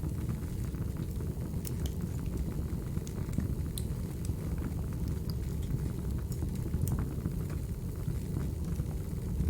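A recording of a wood fire burning: a steady low rumble with scattered sharp crackles and pops from the burning firewood, a few each second.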